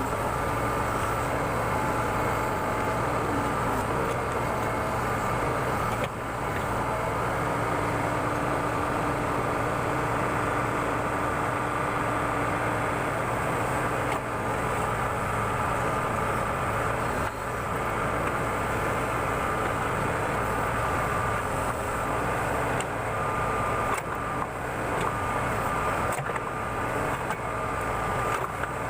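Backhoe loader's diesel engine running steadily while it digs, with a high whine from the hydraulics that comes and goes.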